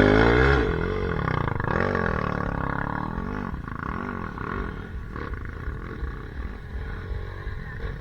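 Dirt bike engine revving in repeated rising and falling surges, loud at first and growing fainter.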